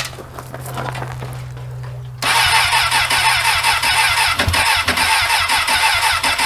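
Suzuki motorcycle's electric starter cranking the cold engine, starting suddenly about two seconds in with an even, rapid pulsing; the engine, unused for a month in freezing weather, does not catch.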